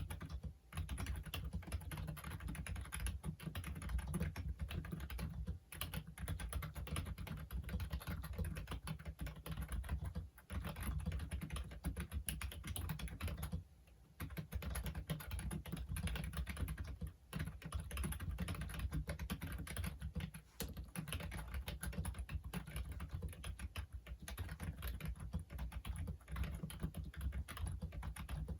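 Fast, continuous typing on a Logitech Wave Keys ergonomic keyboard: a dense run of key clicks that breaks off briefly every few seconds and starts again.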